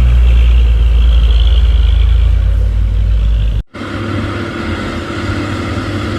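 Heavily loaded truck's diesel engine labouring uphill with a deep rumble. The sound cuts out for an instant a little past halfway, then carries on with a lighter engine note.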